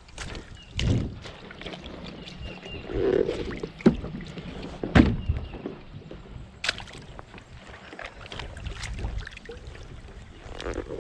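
Fishing kayak moving on a fast-flowing creek: a steady low rush of water and wind on the microphone, broken by about five sharp knocks and clicks of gear against the hull.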